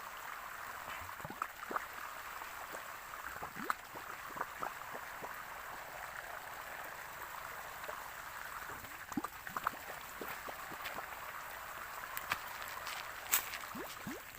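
Water running and gurgling steadily, with many small bubbling plops and clicks scattered through it.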